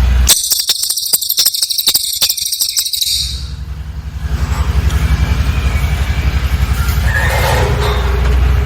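Cililin bird calling a rapid, very high-pitched trill for about three seconds, then a few fainter chirps later, over a low steady rumble.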